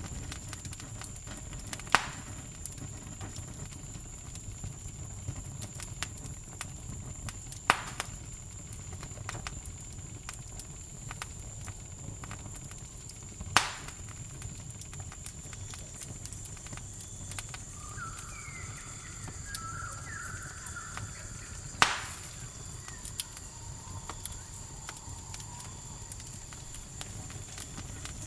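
Campfire crackling, with four sharp pops standing out among fainter ticks, over a steady high chirring of crickets. A few short calls from another animal come near the two-thirds mark.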